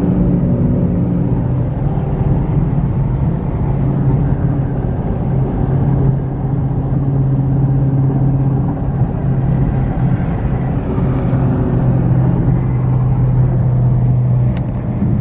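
A car engine running at fairly steady revs, giving a low, steady drone.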